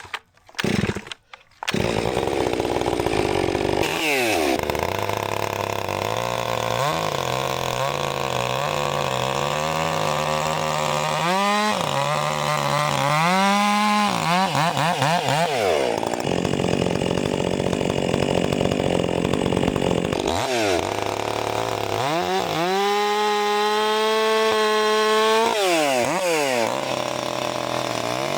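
Stihl MS 400 C chainsaw hot-started: a couple of quick pulls, then it fires about two seconds in and idles. It is then revved to full throttle several times, with a long high-revving stretch in the middle, dropping back to idle in between.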